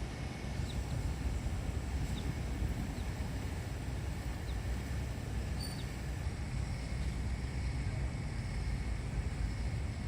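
Steady outdoor rumble, strongest in the low end and fluttering unevenly, with a few faint, brief high chirps in the first half.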